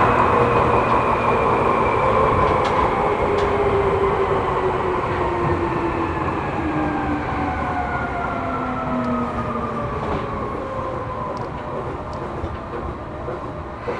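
Seibu New 2000 series electric train heard from inside the car as it slows. Its inverter and traction motors give a whine that falls in pitch over several seconds over a steady rumble of wheels on rail. A few faint clicks from rail joints come through.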